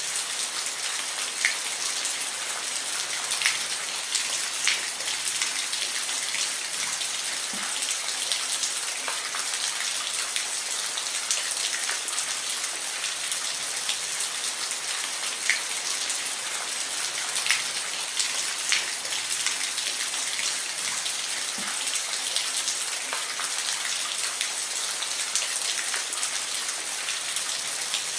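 Steady rain falling, a constant hiss with scattered louder individual drops ticking close by.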